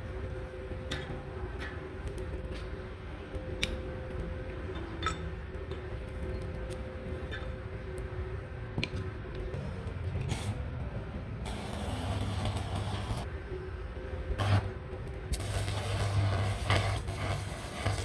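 Workshop noise: a steady hum with scattered sharp taps and clicks. Twice, near the middle and again near the end, comes a spell of hissing, crackling noise over a low buzz.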